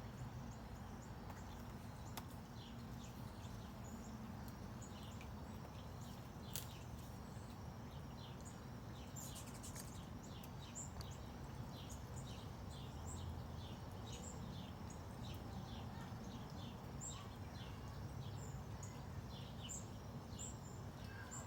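Small birds chirping faintly: many short, high chips, a few each second, over a steady low rumble of background noise.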